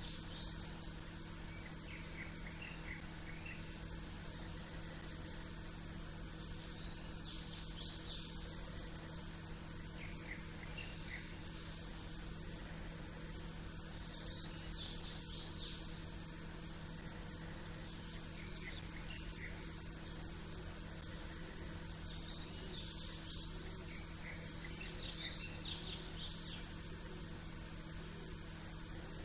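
Small songbirds singing short, high, chirping phrases every several seconds, over a steady low background hum.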